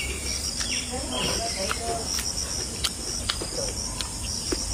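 Close-up eating sounds of boiled chicken being chewed, with several sharp clicks standing out as the loudest moments. Behind them, insects chirp steadily in a fast pulsing trill.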